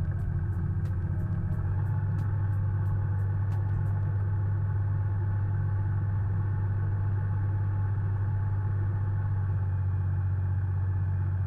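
Sailboat's inboard diesel engine running steadily at low revs during a berthing manoeuvre. A faint regular ticking, about four a second, runs alongside it and stops a few seconds in.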